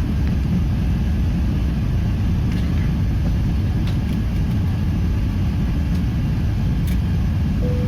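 Airbus A380 airliner heard from inside the passenger cabin: a steady low rumble of engine and airflow noise during the take-off.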